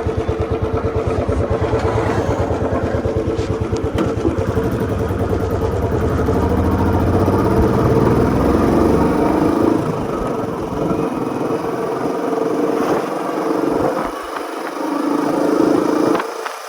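Royal Enfield Standard 350's single-cylinder engine thumping steadily at a low beat, then revving higher about six seconds in, after which the deep low thump fades.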